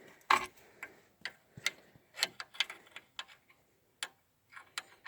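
Irregular sharp clicks and knocks, about a dozen, from a trailer hitch being latched and locked onto a pickup's ball.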